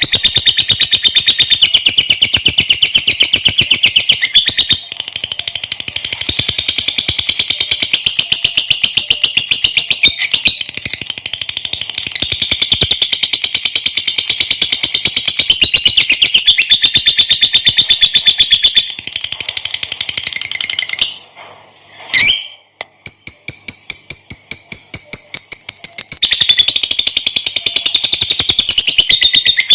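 Lovebird singing in the long 'ngekek' chatter: a fast, unbroken run of shrill repeated notes. The run breaks off briefly about two-thirds of the way through, restarts more thinly, and then returns to full strength.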